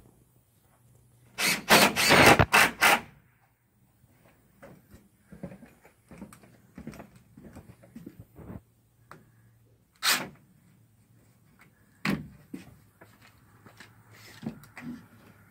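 Wooden knocks and clatter from carpentry work on a wooden ramp: a loud run of about five quick strikes near the start, then scattered softer knocks with a few sharper single ones later.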